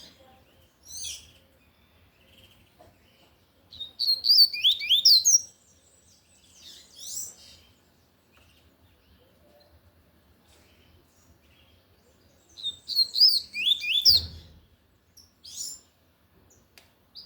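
Double-collared seedeater (coleiro) singing loudly in the 'tui-tui' song style: two fast phrases of sliding high notes, about four seconds in and again near the end, with a few short single notes between. A brief low bump comes at the end of the second phrase.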